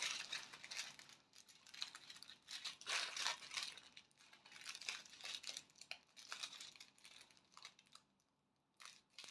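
Faint crinkling of small plastic bags of diamond-painting drills being handled, in short scattered bursts.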